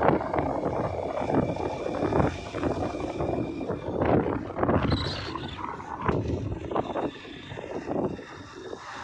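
Rumbling vehicle noise with wind buffeting the microphone in irregular gusts, easing somewhat near the end.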